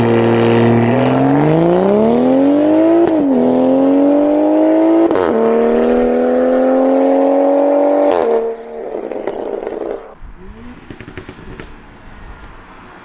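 BMW M340i's turbocharged B58 straight-six, breathing through free-flow downpipes and a valved cat-back exhaust, accelerating hard. The note rises through two quick upshifts, each with a brief crack, about three and five seconds in. The note then drops away about eight seconds in and fades to a quieter engine sound.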